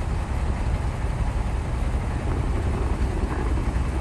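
Shantui crawler bulldozer's diesel engine running, a steady low rumble.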